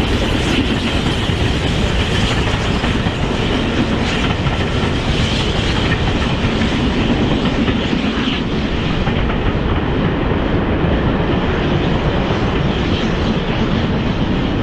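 Steam-hauled train running past, its wheels clattering over the rail joints in a loud, continuous rumble that grows duller in the second half.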